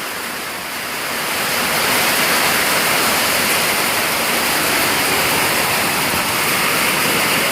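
Heavy rain and strong wind of a severe thunderstorm, a dense steady rush of noise that swells over the first couple of seconds and then holds.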